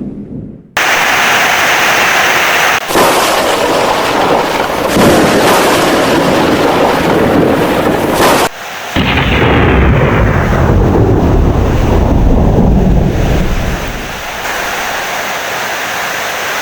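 Heavy rain with thunder. The sound cuts in abruptly about a second in and breaks off briefly twice, with a long low rumble in the second half that eases off near the end.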